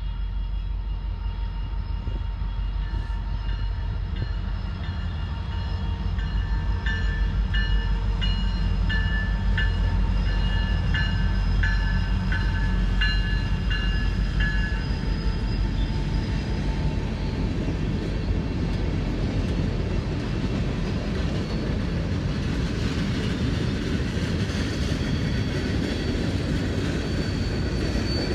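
Freight train rolling past: a steady low rumble of locomotives and cars on the rails, with a run of regular clicks partway through.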